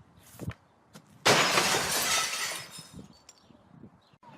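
A sudden loud crash of something breaking and shattering, fading away over about a second and a half, preceded by a short thump.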